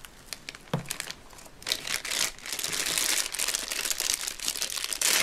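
Thin clear plastic bag crinkling as hands pull a Play-Doh tub out of it, faint with a few clicks at first, then louder and continuous from about two seconds in.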